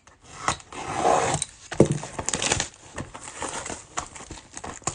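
Rustling and light tapping of things being handled, with a louder knock just under two seconds in.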